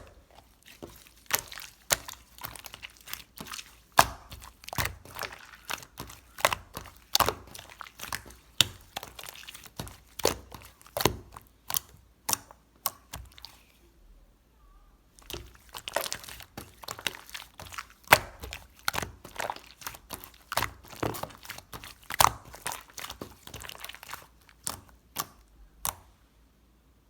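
Sherbet slime being squished and stretched by hand, giving off a steady run of crunchy crackles and pops, with a pause of a second or two about halfway through.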